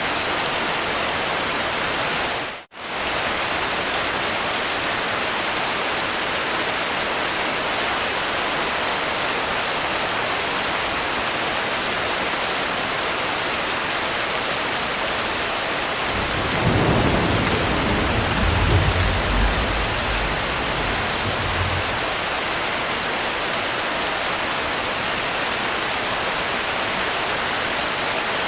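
Steady rain, with a low rumble of thunder lasting about six seconds past the middle. A few seconds in, the rain cuts out for an instant.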